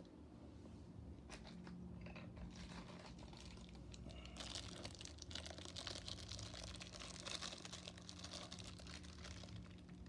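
Faint crinkling and clicking of toy packaging being handled, with plastic and card rustling, denser from about four seconds in. A steady low hum runs underneath.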